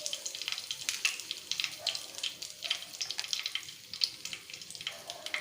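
Cumin, mustard seeds and chana dal frying in hot oil for a tempering: steady sizzle with dense, irregular crackling pops.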